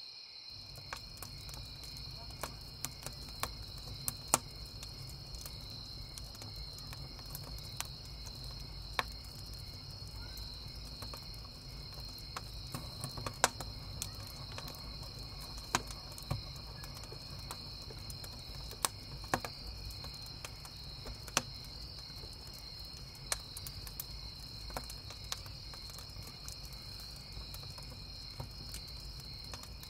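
Wood campfire crackling, with sharp pops at irregular moments. Behind it, a steady, high chorus of chirping crickets.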